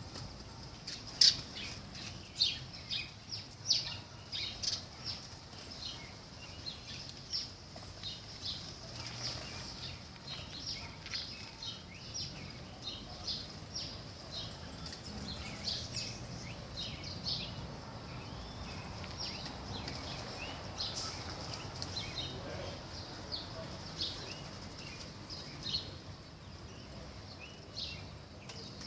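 Birds chirping: many short, high calls repeated throughout, loudest and most frequent in the first few seconds, over a steady high-pitched hiss.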